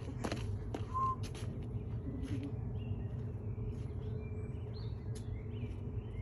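A steady low machine hum with a few sharp clicks in the first second, and short high bird chirps over it from about two seconds in.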